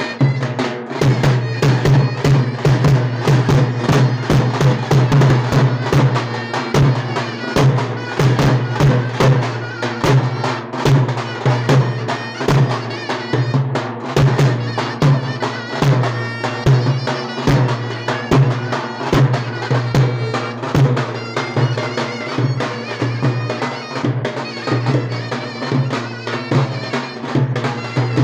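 Davul and zurna playing a folk dance tune: a piercing, reedy zurna melody over a steady, rapid run of davul drum strokes.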